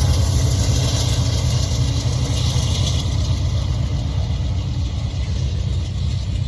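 BNSF coal train running past with a steady low rumble and a hiss of wheels on rail.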